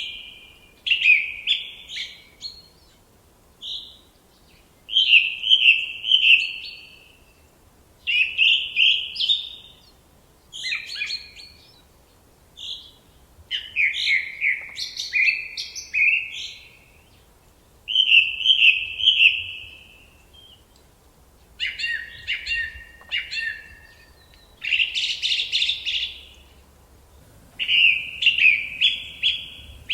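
A songbird singing a series of short phrases, each a quick run of high notes lasting a second or two, separated by brief pauses.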